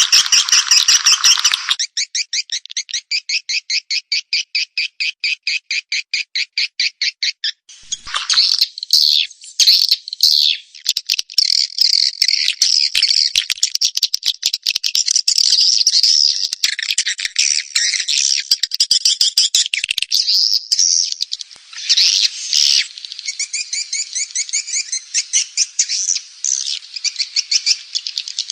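Recorded swiftlet calls, a lure track played to draw swiftlets into a nesting house. It opens with dense chatter, then a fast, even trill of about seven chirps a second, then a crowd of overlapping twittering calls.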